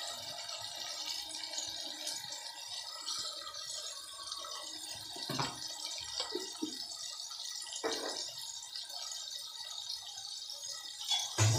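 Onion-tomato masala with red chilli powder and turmeric sizzling gently in oil in an open pressure cooker, a steady hiss. A few soft knocks come through it, the loudest near the end.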